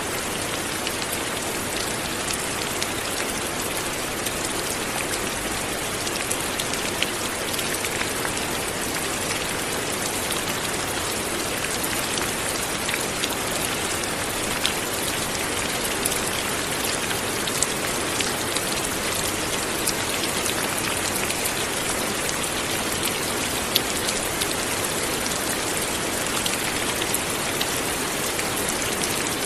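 Light rain falling steadily, a continuous hiss with scattered sharp drop taps.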